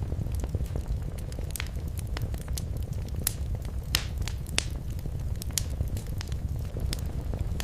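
Wood fire in a fireplace crackling, with a steady low rumble of the flames and frequent sharp, irregular pops and snaps.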